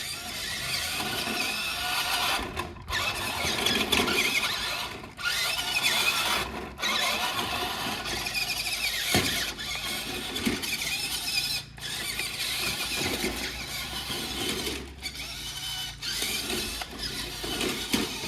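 RC monster truck's electric motor whining as it is driven, its pitch rising and falling with the throttle, cutting out briefly a few times.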